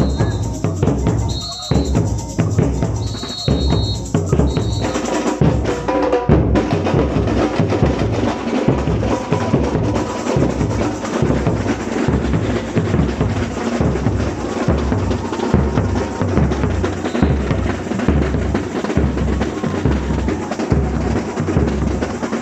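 Samba bateria of a marching samba school drumming, a fast, steady beat of bass drums, snares and other percussion. A few short high-pitched blasts sound in the first five seconds, then the drumming thickens.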